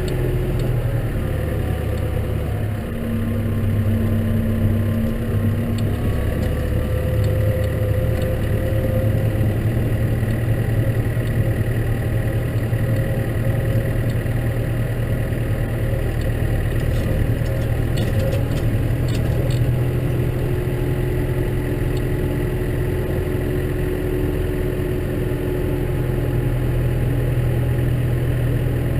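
Case tractor engine running steadily under a snow plough, its note falling right at the start, then holding with small shifts in speed.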